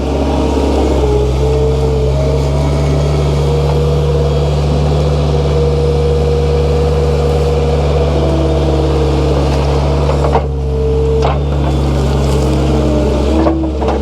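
Skid steer engine running steadily, heard from inside the enclosed cab as a loud, even drone, with brief shifts in the sound about ten seconds in and near the end.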